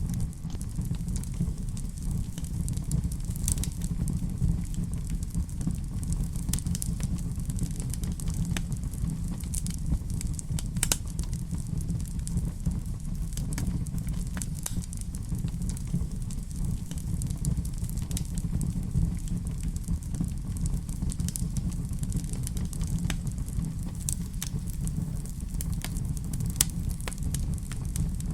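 Wood fire burning in a fireplace: a steady low rumble of flames with frequent small, sharp crackles and pops scattered throughout.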